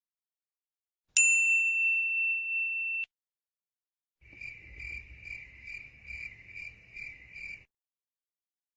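Sound-effect clips: a single bright ding that rings on for about two seconds and is then cut off. After a short gap comes a high chirp pulsing about two and a half times a second for about three seconds, like a cricket, over a faint low rumble.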